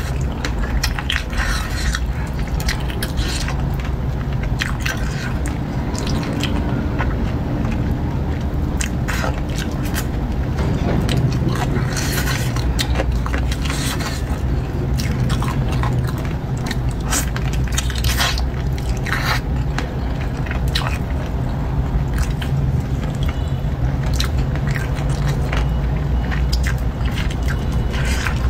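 Chewing and biting on chicken feet in a thick chilli sauce: wet smacking with scattered crackles and crunches, over a steady low hum.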